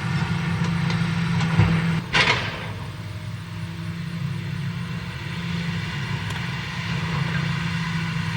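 Tractor engine running steadily, with one sharp smack about two seconds in.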